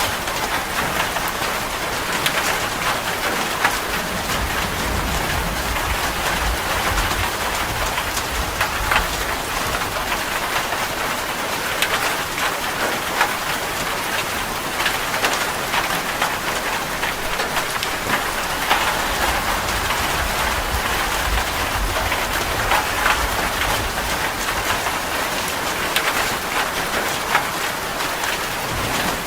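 Heavy rain falling steadily on a metal roof, a dense patter of drops. A low rumble swells underneath twice.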